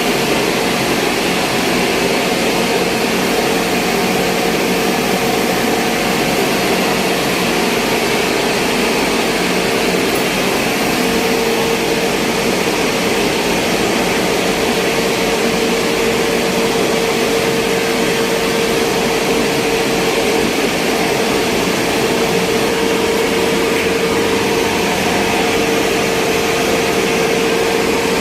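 Electric machinery at a flour mill running steadily: a loud, unchanging mechanical noise with a constant mid-pitched hum.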